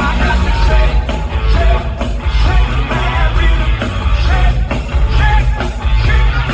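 Live rock band playing loudly through a PA, with heavy bass and drums, distorted electric guitar and a wailing lead vocal.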